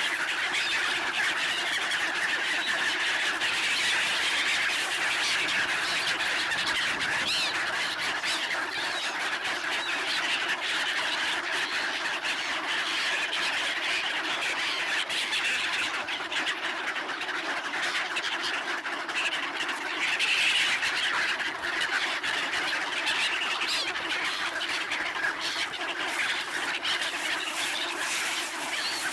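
A large flock of black-headed gulls calling at once: a dense, continuous din of overlapping squawks with no break.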